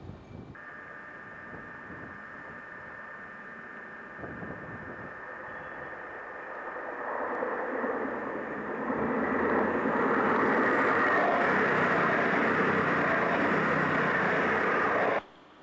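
Virgin Voyager diesel multiple unit approaching and passing close by: a steady high whine at first, then the engine and wheel noise builds to a loud rush as the train goes past, cutting off abruptly near the end.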